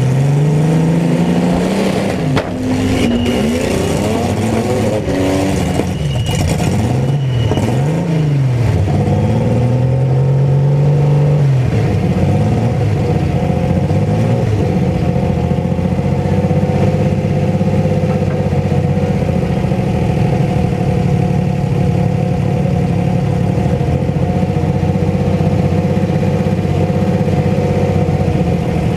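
Mini truck engines revving hard and dropping back several times, with a few sharp knocks early on. Before halfway they settle into a steady, continuous engine drone.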